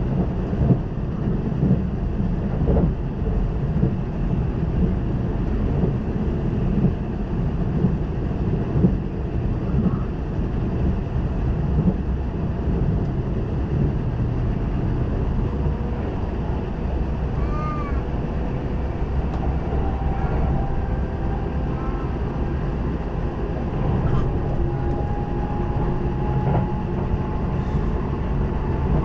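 Kintetsu electric train running, heard from inside the passenger car: a steady low rumble of wheels on rails. A faint steady whine joins in the second half.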